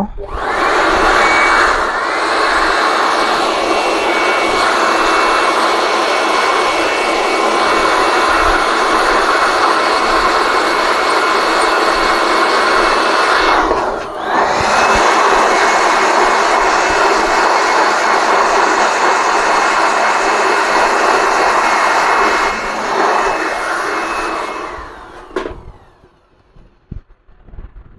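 Electric hot-air blower running steadily with a faint whistle, switched off for a moment about halfway through and then stopping a few seconds before the end, used to dry freshly glued laptop hinge mounts.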